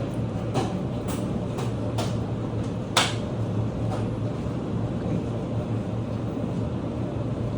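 Steady low hum of a pizza shop's background machinery, with scattered clicks and knocks; one sharper knock about three seconds in.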